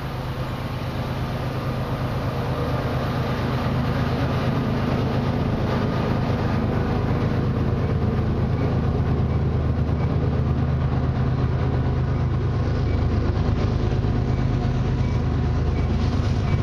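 Approaching freight train led by diesel locomotives, their engines' low drone growing steadily louder as the train nears.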